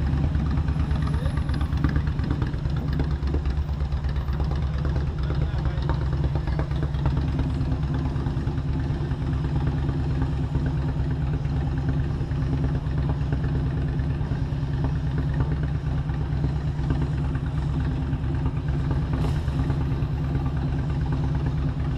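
Motorcycle engine running at a steady, unchanging speed, giving a low, even drone.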